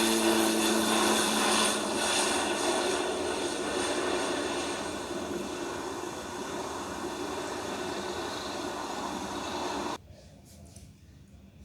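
Airliner engines running loud with a steady whine, fading gradually as the aircraft moves away. The sound cuts off abruptly near the end.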